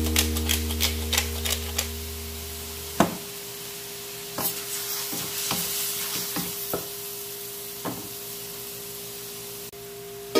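Diced chicken and onion sizzling in a stainless-steel wok as they are stirred, with a utensil knocking and scraping against the pan several times. A held music chord fades out over the first three seconds.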